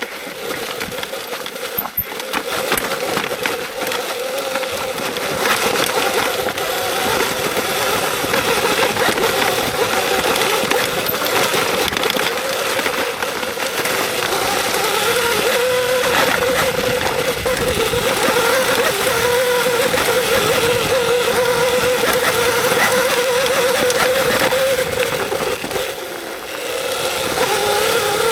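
Electric dirt bike being ridden on a trail: the motor's whine wavers in pitch with speed over a broad rushing noise. It builds up over the first couple of seconds and eases briefly near the end before picking up again.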